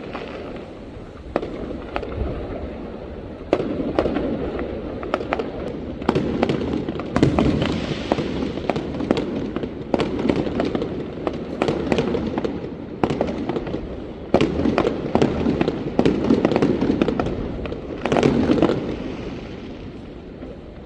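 Fireworks going off in a dense, continuous barrage of bangs and crackling, with thicker salvos in the middle stretch, tapering off near the end.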